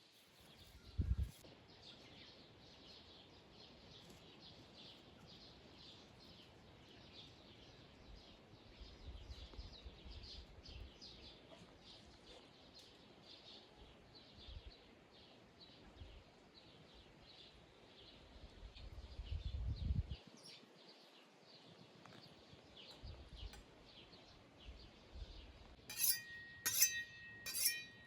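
Birds chirping steadily in the background, with a few low rumbles from wind or handling. Near the end comes a run of sharp clinks that ring on, like glass or metal dishes knocking together.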